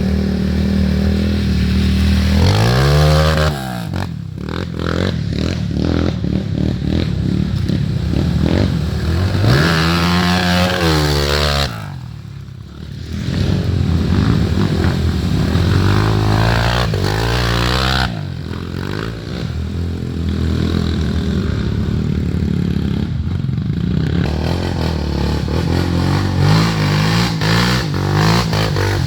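Trail motorcycle engines running and being revved, the pitch rising and falling several times.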